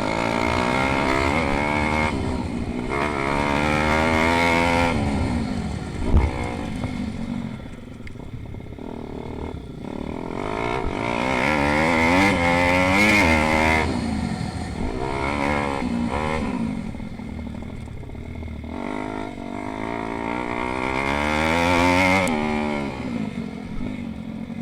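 Pit bike engines racing: the revs climb and drop over and over, with the sound swelling three times as bikes come past. A short sharp knock sounds about six seconds in.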